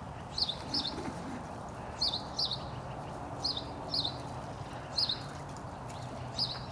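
A small bird chirping: short high two-note chirps, repeated about every second and a half.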